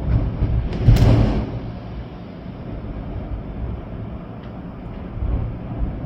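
Storm wind gusting through trees with rain, the wind buffeting the microphone with a deep rumble. A sharp, louder gust hits about a second in, then the wind eases to a steady rush.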